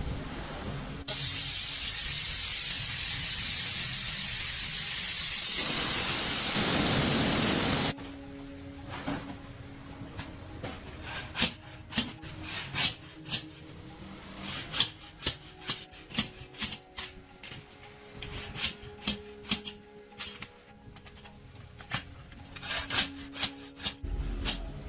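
Workshop tool noise. A loud, steady hiss starts about a second in and cuts off suddenly after about seven seconds. Irregular sharp clicks and knocks of tools on metal and rubber follow.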